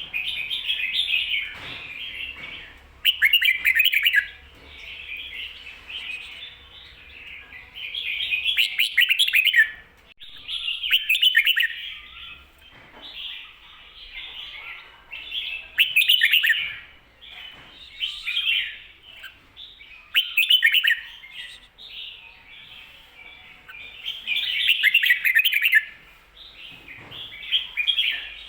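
Red-whiskered bulbul song: loud, bubbling warbled phrases every two to four seconds over softer continuous chattering. It is the 'ko-ta-ra' doubled phrase that Thai keepers play to teach caged bulbuls.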